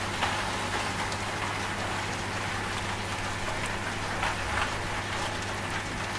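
Steady rain with scattered drop ticks over the low, steady hum of a washing machine running.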